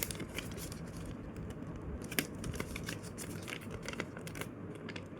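A sheet of paper being folded and creased by hand: irregular small crackles and clicks of the paper, over a faint low hum.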